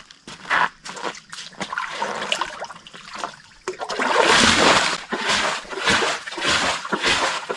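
Water splashing and sloshing in short, irregular bursts that grow louder and more continuous about four seconds in.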